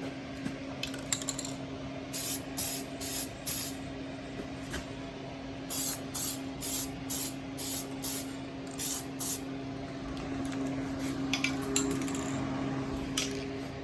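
Aerosol spray-paint can spraying in short hissing spurts: a run of four, then a run of about seven, then a few single spurts near the end, over a steady low hum.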